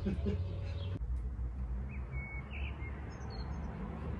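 Steady low background rumble with a few short bird chirps, a pair about two seconds in and a couple of higher ones about a second later.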